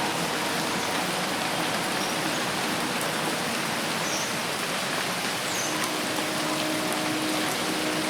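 Dense, steady rain falling on forest foliage: a continuous even hiss of many drops with no let-up.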